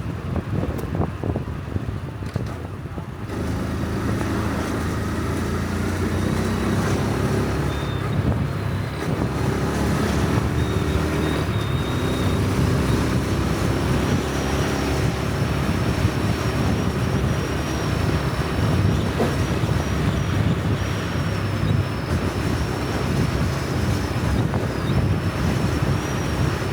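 Honda Super Cub C125's air-cooled single-cylinder engine running under way. It picks up and grows louder about three seconds in, then runs steadily.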